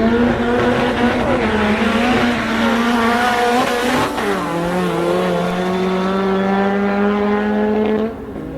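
Sports car engines accelerating hard in a drag race, the engine note climbing in pitch. About four seconds in there is a gear change: the note drops, then climbs steadily again before falling away sharply near the end.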